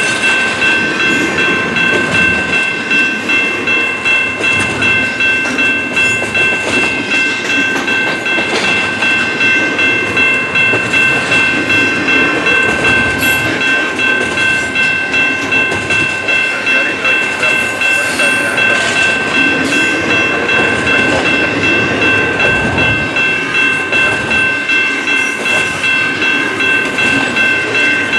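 Slow-moving intermodal freight train rolling past, its wheels rumbling and clicking over the rail joints. Over it a railroad crossing bell rings in an even, steady rhythm.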